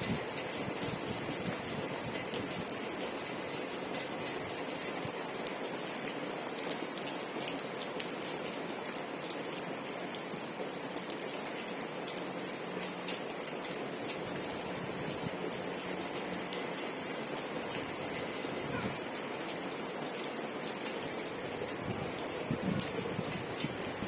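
Steady rain falling: an even hiss with scattered individual drops.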